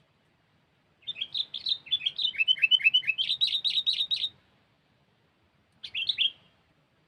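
Sooty-headed bulbul (kutilang), a trained decoy bird, singing: a rapid run of sharp chirping notes for about three seconds, then a short burst of a few notes near the end.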